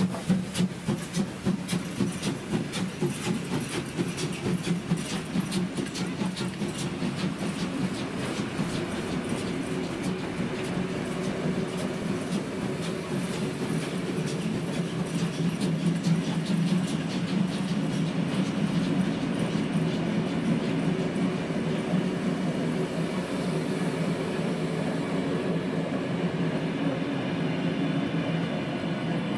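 Train pulling away and gathering speed: rhythmic beats that quicken and merge into a steady rumble.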